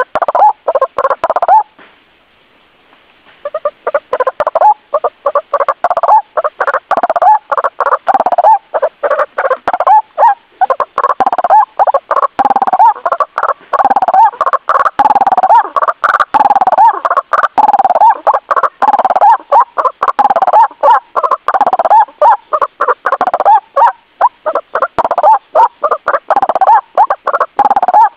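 White-breasted waterhen calling: a loud, fast string of repeated croaking notes, several a second, with a brief pause about two seconds in. This is the kind of recording played to lure the bird.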